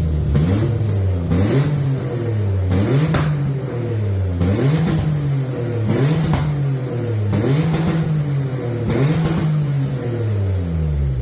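Toyota 2GR-FE 3.5-litre V6, freshly swapped into a Toyota Tazz, being revved on its first start-up. It is blipped about seven times, each rev climbing and then falling back, roughly one every second and a half.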